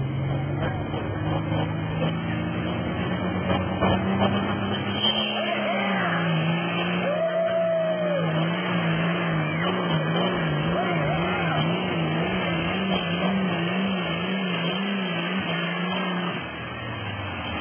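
John Deere farm tractor's diesel engine at full throttle under a pulling load. Its pitch climbs over the first few seconds, then holds high and wavers rapidly up and down, and falls away after about sixteen seconds as the throttle comes off.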